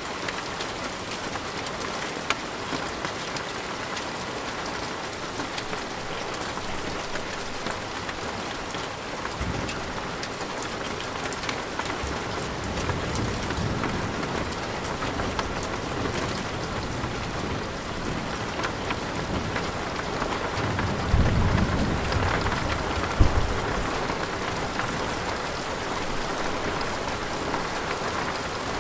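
Steady rain falling, with a low rumble of thunder building about a third of the way in and a louder roll of thunder with a sharp crack about three quarters of the way through.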